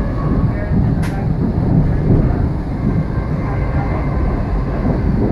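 Passenger train running at speed, heard from inside the carriage: a steady low rumble of wheels on the track, with one brief sharp click about a second in.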